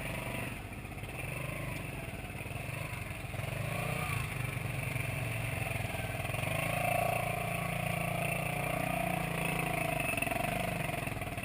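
Motorcycle engine running steadily, its pitch shifting slightly up and down partway through.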